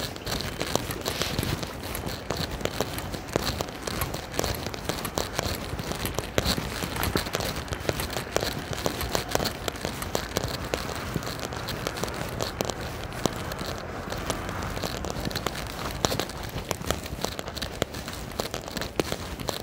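Rain falling close to the microphone: a dense, steady crackle of drops hitting it.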